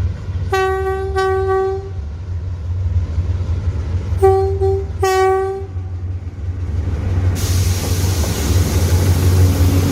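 Diesel freight locomotive sounding its single-note air horn in two groups of blasts about three seconds apart, over the steady low rumble of the locomotive's engine. A broader rolling-train noise rises near the end.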